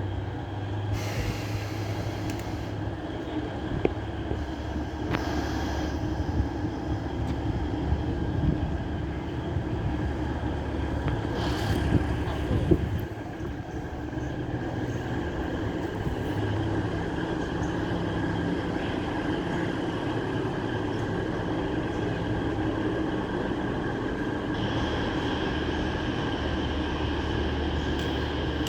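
Alishan Forest Railway train running along the track: a steady rumbling run with a high, drawn-out wheel squeal and a couple of sharp knocks about four and twelve seconds in.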